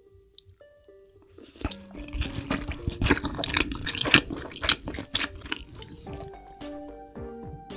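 Close-miked wet chewing of sushi, a quick run of moist mouth clicks and smacks that starts about a second and a half in and dies away near the end, over soft background music with slow held notes.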